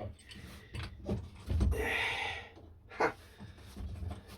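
A man blowing out a long, breathy exhale lasting about a second, with a short "ha" from him shortly after.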